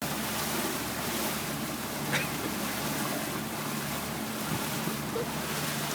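Steady rush of wind and water on a small motorboat under way, with the boat's motor humming low underneath. A brief short sound breaks through about two seconds in.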